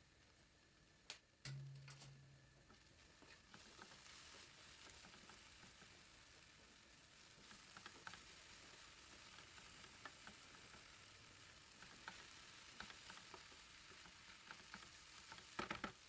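Food frying in a pan: a steady sizzle with scattered crackles and pops that sets in a few seconds in, after a click and a brief low hum. A louder burst of crackling comes near the end.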